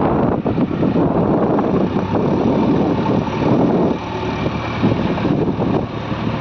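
Diesel engines of heavy earth-moving machinery running steadily, with wind buffeting the microphone.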